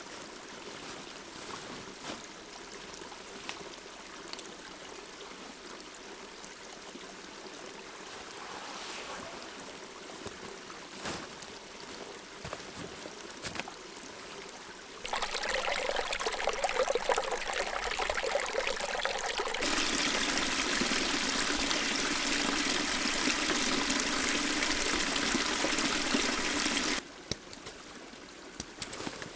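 Creek water running and trickling. It is soft at first, jumps much louder about halfway through, and drops back sharply near the end.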